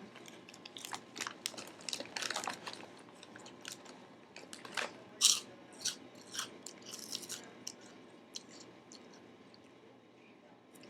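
Crunchy snack chips being bitten and chewed close to the microphone: irregular crisp crunches that come thick in the first few seconds and thin out toward the end.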